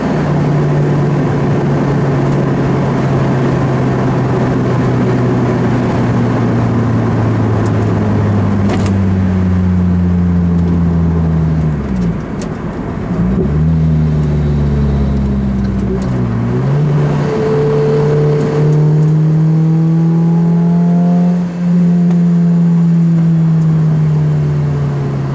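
Lotus Elise 111R's four-cylinder engine heard from inside the cabin, running at road speed. About halfway through its note dips sharply and picks up again a few times, then climbs and holds steady before easing off near the end.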